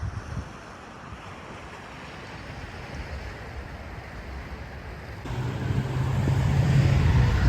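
Wind buffeting the microphone over a steady outdoor rush of noise. About five seconds in, a vehicle's engine hum comes in and grows louder as it approaches.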